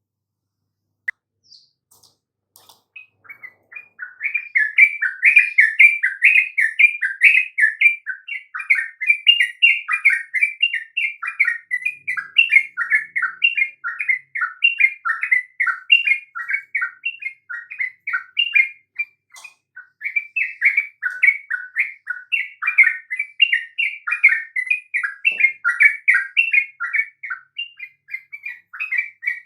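Yellow-vented bulbul (trucukan) singing: a dense, continuous run of quick, bubbly rising and falling notes that starts a few seconds in after a single click, played as a lure song to set other bulbuls singing.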